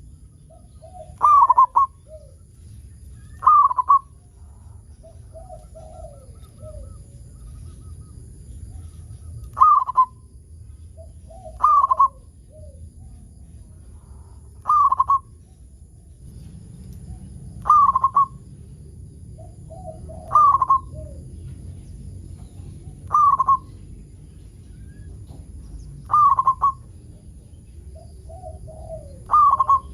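Zebra dove (perkutut) singing its repeated cooing song: loud, short calls that drop in pitch, about every two to three seconds, with softer, lower notes between them.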